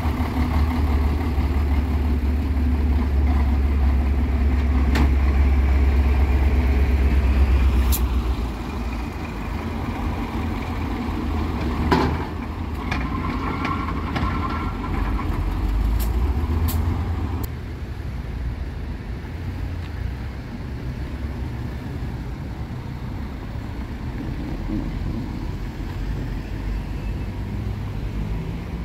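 Road traffic: motor vehicle engines running, with a heavy low engine rumble for the first eight or so seconds that then fades to lighter, steadier traffic noise. A few sharp clicks and a knock about twelve seconds in.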